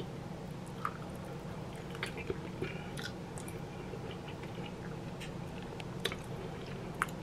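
A person chewing a bite of deep-dish sausage pizza with stringy mozzarella close to the microphone. Soft, scattered mouth clicks and smacks sound over a steady low room hum.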